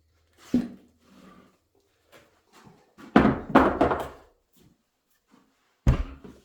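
A sharp thud, then a quick run of knocks and clatter, then another sharp thud near the end, in a small workshop room.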